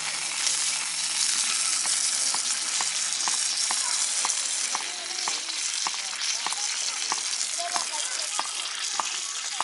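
Food sizzling on a hot iron griddle, a steady frying hiss with small irregular ticks and pops through it.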